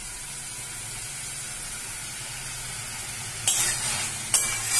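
Prawns frying in a wok in masala cooked down almost dry, a steady sizzle. A metal spatula scrapes and stirs through them twice near the end.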